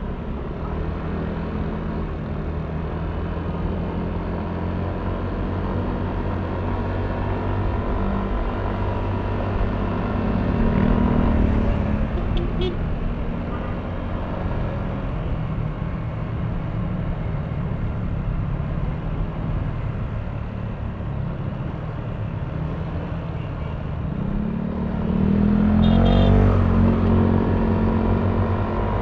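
Yamaha Aerox V3 scooter's 155 cc single-cylinder engine running on the move, with road and wind noise. The engine note rises twice as it accelerates, about ten seconds in and more strongly near the end.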